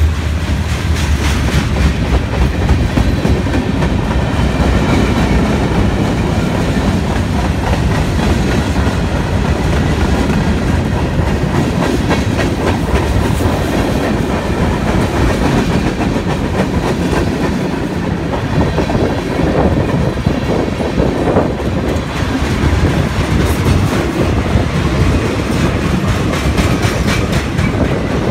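Freight train cars rolling past at close range, loud and steady, the steel wheels clicking rhythmically over the rail joints.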